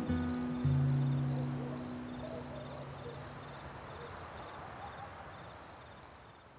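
Crickets chirping in a steady, rapid, high-pitched pulse, with the last low notes of soft background music dying away in the first couple of seconds; the whole sound slowly fades out toward the end.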